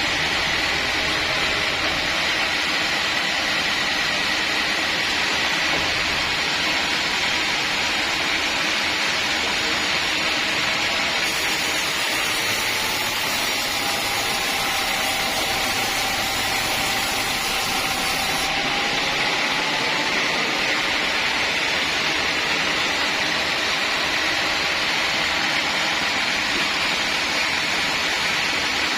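Sawmill saw machinery running steadily, with a high whine held throughout and a second, lower whine that rises and falls slightly around the middle.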